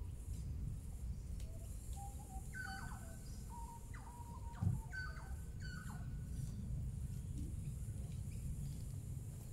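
A bird sings a run of clear whistled notes, some held level and some sliding up or down, over a steady low rumble. A dull thump comes about halfway through.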